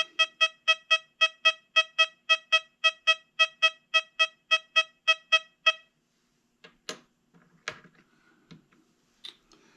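XP Deus 2 metal detector giving its silver-coin signal for a 1960 silver Washington quarter: a run of short, identical mid-pitched beeps, about four a second, for nearly six seconds. A few sharp clicks and knocks follow.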